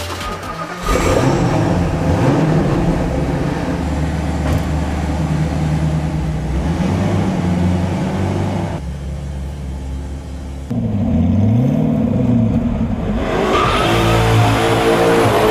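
Supercar engine started by push button, catching about a second in, then blipped repeatedly with revs swinging up and down. Near the end it revs louder and harder, as under acceleration.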